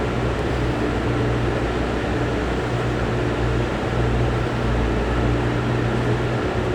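Steady background hum over an even hiss: the air-handling noise of a large indoor space.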